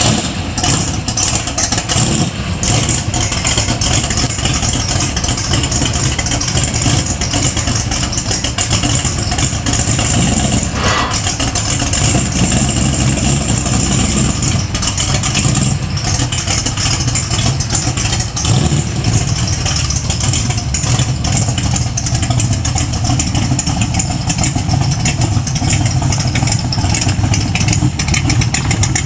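1996 ERA Cobra replica's Ford V8 running through side exhaust pipes just after a cold start, a loud, steady idle. A little past halfway the low note fills out as the car is driven slowly off under light throttle.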